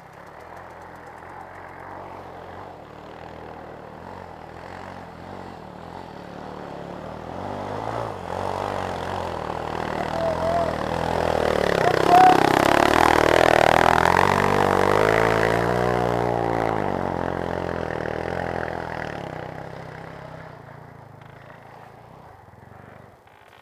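Motocross motorcycle engine approaching, passing close about halfway through, and fading away. Its sound rises steadily to the pass and dies down over the last several seconds.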